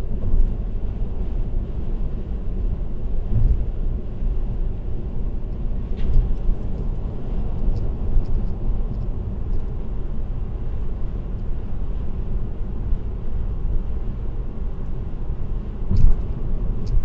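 Steady road and tyre noise from a car driving at highway speed, heard through a dashcam, with a few faint clicks and bumps.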